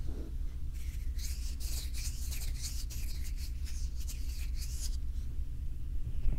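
Bare hands rubbing and stroking over a binaural microphone in a run of brushing strokes. The strokes start about a second in and stop about five seconds in, over a steady low rumble.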